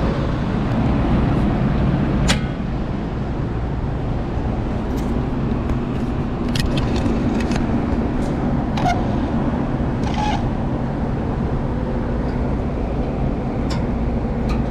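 Belt-driven HVAC blower running steadily on a newly fitted link belt, a loud even drone with a low hum, and scattered short clicks of handling close by.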